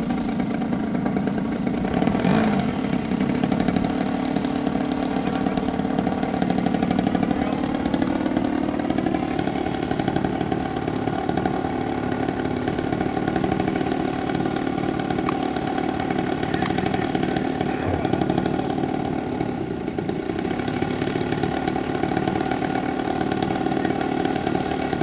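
A radio-controlled model plane's engine running steadily. About eight seconds in it speeds up and holds a higher pitch.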